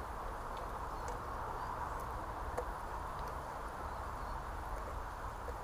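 Sausage and black pudding frying in hot oil in a pan over a campfire: a steady sizzling hiss with scattered small pops and crackles.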